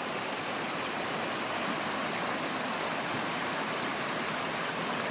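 Steady rush of running water from a river at a small waterfall.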